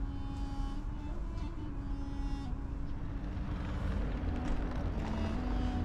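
Low, steady rumble of a Talgo train carriage rolling slowly into a station, heard from inside, with quiet background music of held notes changing pitch every second or so.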